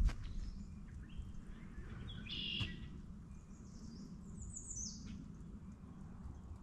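Wild songbirds calling: a short burst of calls about two seconds in, and a quick run of high notes falling in pitch a little before the five-second mark, over a low steady background rumble. A sharp click right at the start.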